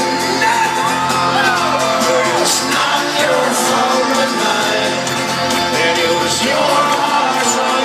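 A live band playing loud amplified rock music at a concert, with the crowd singing along, shouting and whooping over it.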